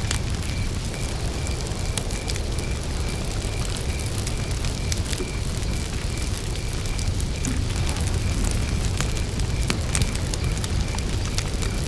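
Wood campfire crackling, with scattered sharp pops over a steady low rumble. Behind it a cricket chirps in an even rhythm, about two or three chirps a second.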